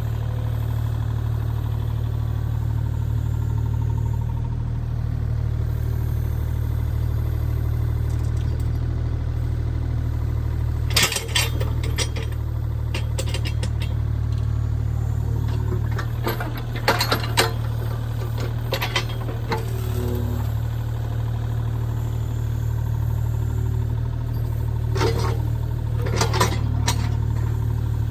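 An engine idling steadily, with several short bursts of sharp cracks and knocks over it.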